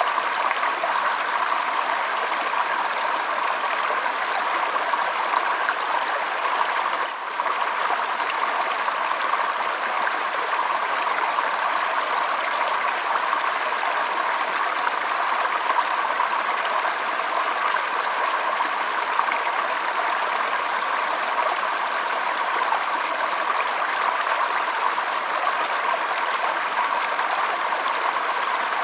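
Running water of a stream, a steady, even rushing and babbling, with a brief dip in loudness about seven seconds in.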